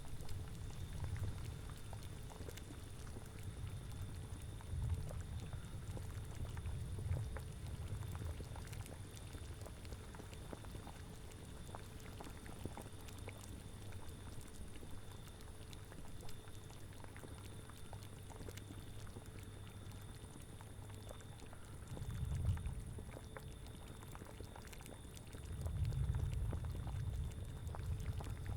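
A cauldron of liquid bubbling at a steady boil, full of fine popping, under low gusts of wind that swell and fade several times, the strongest near the end.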